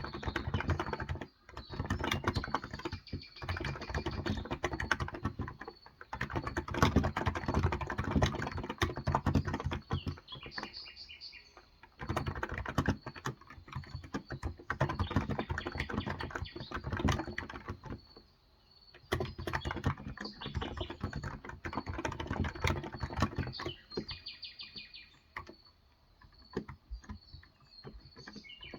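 Typing on a Cox Endeavor electro-capacitive (35 g, tenkeyless) keyboard: quick runs of keystrokes in bursts, broken by short pauses. Birds chirp faintly in the background, most clearly about eleven seconds in and near the end.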